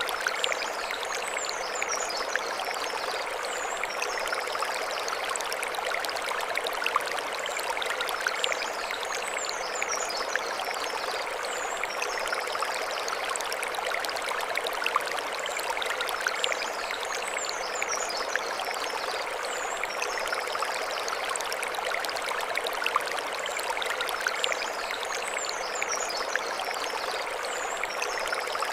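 Mountain stream running over stones, a steady rush of water with small splashes. A high chirping call recurs about every eight seconds above it.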